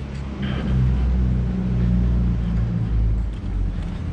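Loud, steady low rumble of city street noise at a road crossing.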